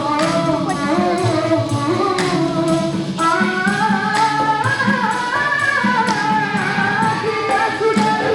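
A vocal group singing together in harmony, several voices moving in parallel, over a steady percussion beat.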